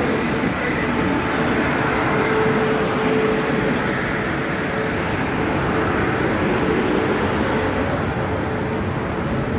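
Train running at the station: a steady rushing noise with a faint hum.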